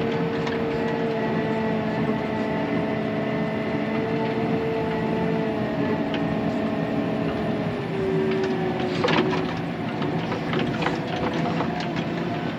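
Diesel engine of a loaded earthmoving machine running steadily while it drives, its pitch dropping a little about eight seconds in. A cluster of metal clanks and rattles from the tracks or bucket comes about nine seconds in.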